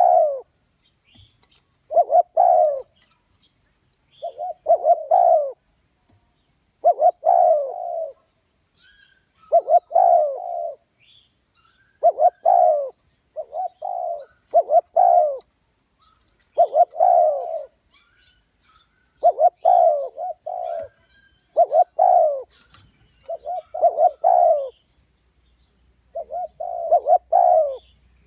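Spotted dove cooing: a short phrase of two or three low coos, repeated about every two and a half seconds. A lure call used to draw wild spotted doves to a trap.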